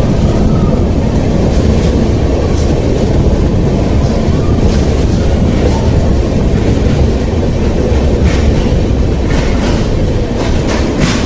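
Passenger train's wheels running on the rails inside a rock tunnel, heard from an open coach doorway: a loud, steady rumble with scattered clicks as the wheels pass over rail joints.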